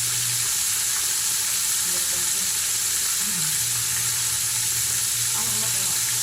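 Chicken pieces frying in hot oil: a steady, even sizzle.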